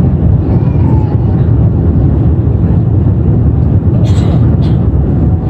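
Airliner cabin noise heard from inside the cabin: the steady, loud, deep rumble of the engines and air rushing past the fuselage during the approach to landing.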